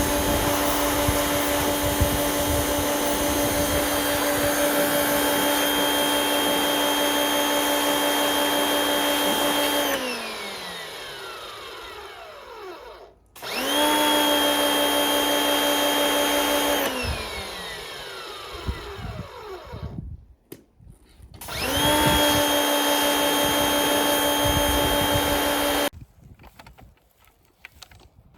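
An electric motor whining at a steady high pitch, run three times: the first two runs wind down in falling pitch when released, and the last cuts off abruptly.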